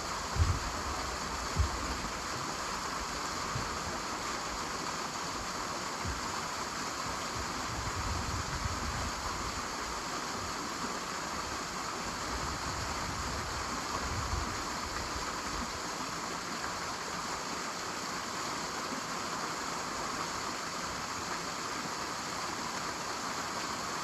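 A 15-foot waterfall pouring into its pool: a steady rush of falling water. Two short low bumps come about half a second and a second and a half in.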